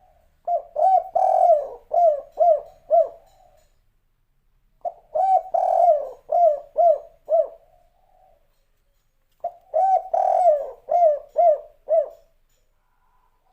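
Spotted dove (tekukur/derkuku) cooing in the 'kuk 3' style. Three phrases, each a string of about six quick, arched coo notes, with a pause of a second or two between phrases.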